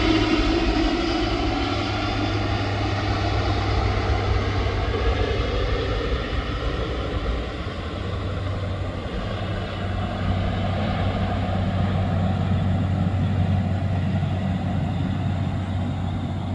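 Airbus A400M's four turboprop engines droning steadily, the pitch sliding slowly downward over the first several seconds.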